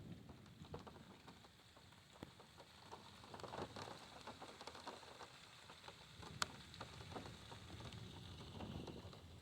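Faint rain falling on a car, heard from inside it: a quiet patter with scattered drops ticking, one sharper tick about six and a half seconds in.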